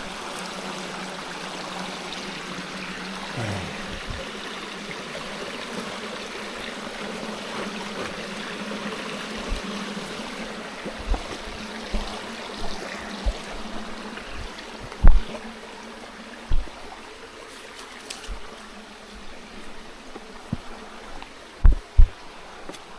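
Flowing water of a stream running steadily, with a few short low knocks in the second half, the loudest about two-thirds of the way through.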